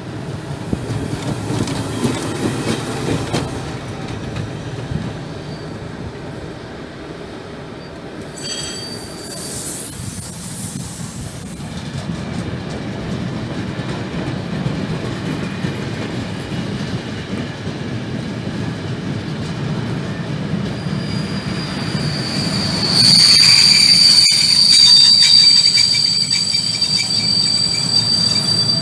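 Freight train of container flat wagons rolling past, a steady rumble of wheels on rail. A brief high wheel squeal comes about a third of the way in, and a louder, sustained high-pitched wheel squeal over the last six seconds.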